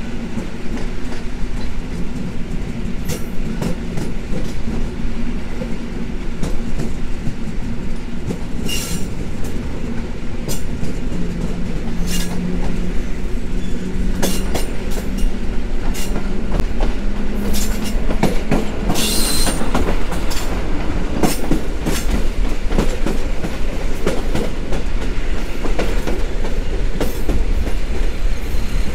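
EN57 electric multiple unit running, heard at an open window: a steady rumble of wheels on the rails with a low hum, broken by irregular sharp clicks as the wheels cross track joints, most frequent about two-thirds through.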